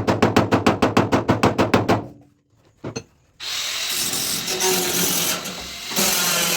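Car body repair tools: a fast, even run of sharp strokes, about eight a second, stops about two seconds in. After a short pause a steady, noisy power tool starts and keeps running.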